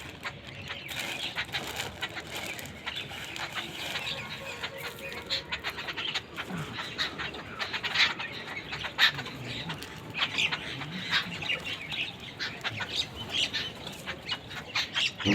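A group of birds feeding at close range: irregular wing flutters and quick pecking clicks throughout.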